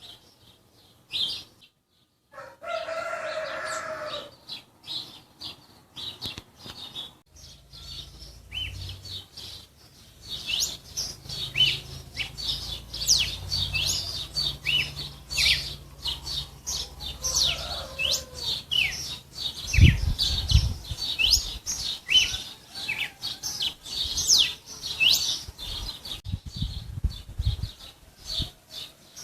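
Songbirds chirping in many quick, short high notes that overlap and grow busier after about ten seconds, with one lower, longer pitched call near the start. A low rumble runs under the middle stretch, and a few dull thumps come in the second half.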